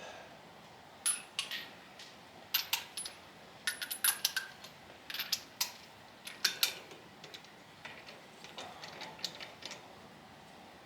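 Small metal hardware and hand tools clinking and clicking, an irregular run of sharp taps, some with a brief high metallic ring, busiest in the first two-thirds and fainter towards the end: nuts and bolts being handled while center caps are fitted to a wheel.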